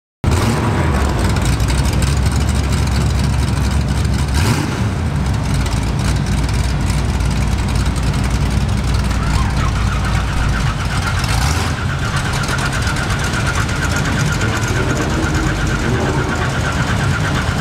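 Supercharged V8 with a Roots blower in a first-generation Camaro drag car, running at a lopey big-cam idle. A pulsing, high-pitched whine joins in about ten seconds in.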